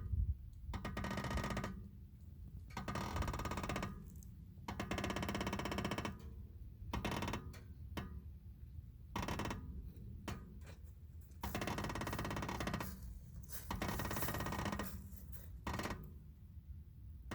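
Vehicle brakes making a pitched, rasping noise in repeated bursts of one to two seconds, with short quieter gaps between.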